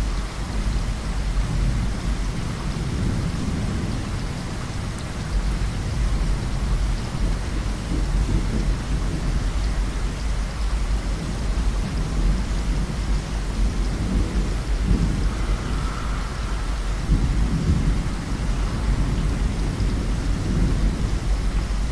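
Heavy rain falling steadily under a thunderstorm, with low rolling thunder rumbling underneath that swells about a third of the way in and again late on.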